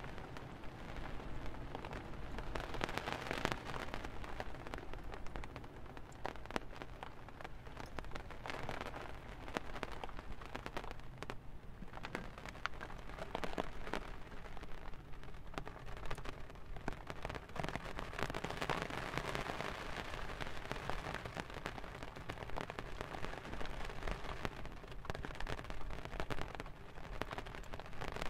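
Rain falling on a tent's flexible fabric roof: a dense, steady stream of drop impacts, a little heavier about three seconds in and again past the halfway point.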